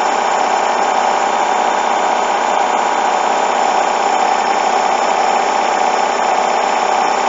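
Hoover washing machine drum spinning a bedding load with a steady, loud whir, while it tries to ramp up toward its 1400 rpm spin. The load is badly unbalanced.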